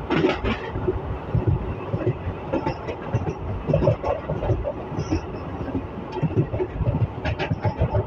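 ICF passenger coach of an express train running along the track, heard from on board: a steady low rumble of wheels on rails with frequent irregular knocks and rattles.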